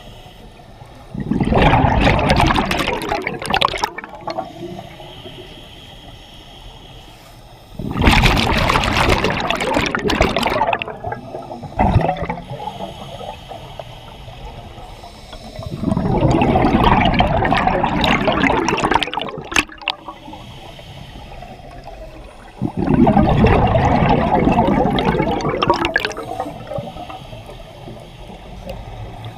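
Scuba diver's regulator exhaust bubbles underwater: four exhaled breaths, each a loud two-to-four-second burst of bubbling, about every seven seconds, with quieter stretches between them.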